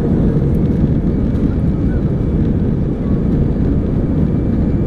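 Steady low rumble of an Airbus A318's jet engines and rushing air, heard inside the passenger cabin.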